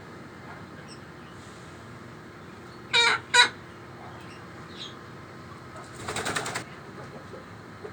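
Aseel chicken flapping its wings in a short rapid burst about six seconds in, preceded about three seconds in by two short, harsh bird calls in quick succession.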